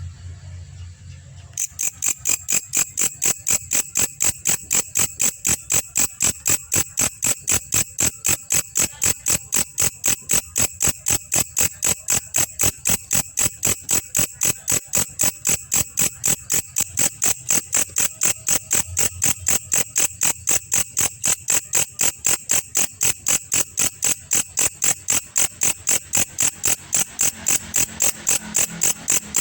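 Belalang kecek, a katydid, calling: a long, even train of sharp, rapid chirps, several a second, that starts about two seconds in.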